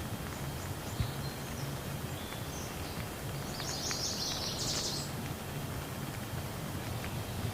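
Steady rain falling as an even hiss. A bird chirps in a short high burst about halfway through, with a few fainter chirps before it, and a single sharp tap about a second in.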